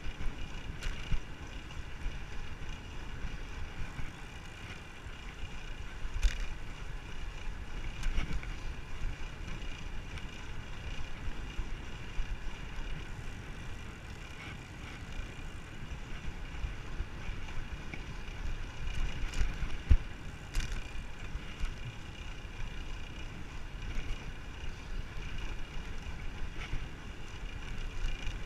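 Wind rushing over the microphone of a moving bicycle, with a few sharp knocks.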